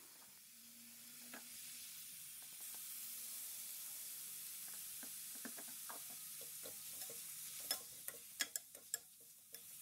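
Chicken pieces with onions, garlic and ginger sizzling faintly in hot oil in a pan, while a slotted metal spoon scrapes and taps against the pan as they are stirred; the scraping and tapping come thicker near the end.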